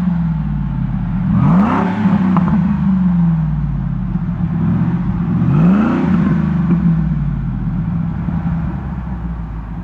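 Supercharged 5.4-litre V8 of a 2002 Ford Lightning, with a Bassani cat-back exhaust, revved twice from idle. Each blip rises quickly and then falls slowly back toward idle.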